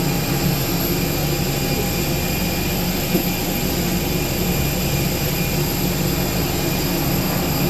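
Steady engine drone with a thin high whine on top, the running-engine noise of an airport apron, with one small click about three seconds in.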